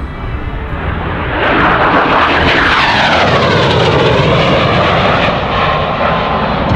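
AV-8B Harrier II's Rolls-Royce Pegasus turbofan, a loud jet noise that swells about a second and a half in, with a whine that sweeps down in pitch and then climbs back up as the jet passes.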